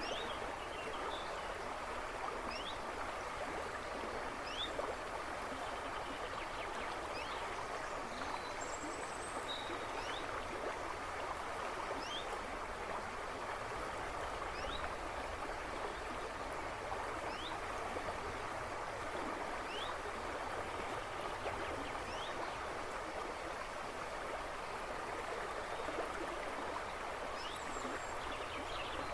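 A river running with a steady rush and babble of water, and birds in the background giving short, high, upward-sweeping chirps every second or two.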